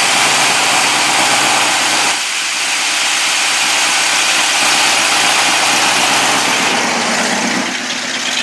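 Carbureted Ford 351 Windsor V8 with a big cam idling steadily, heard from over the open engine bay.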